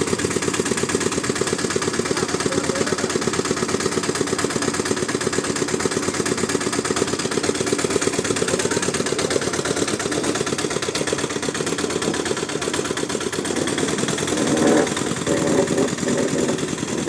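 Homemade mini tractor's small 7.5 hp diesel engine running steadily with a fast, even firing beat, getting louder near the end.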